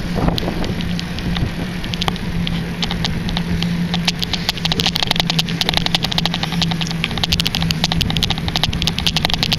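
Schwinn bicycle being ridden, with a steady low hum and rapid, continuous ticking and rattling.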